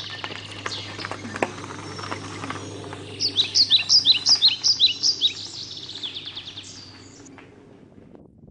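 Woodland songbirds singing, with a quick run of sharp, high, falling notes about three seconds in that is the loudest part; the song fades out near the end.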